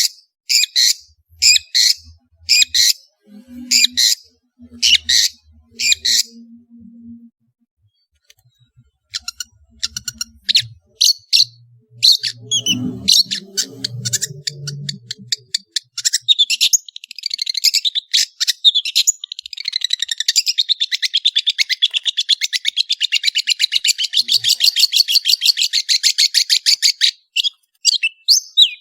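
Long-tailed shrike (cendet) singing. First comes a run of loud, sharp calls about once a second, then a stretch of varied chirps, and from about halfway a long, rapid, unbroken trill lasting some ten seconds.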